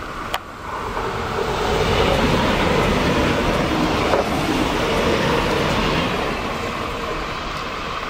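A Renfe Media Distancia electric passenger train passing close by at speed, its wheels running on the rails. The sound swells as it approaches, is loudest while the cars go by, then slowly fades. A single sharp click comes about a third of a second in.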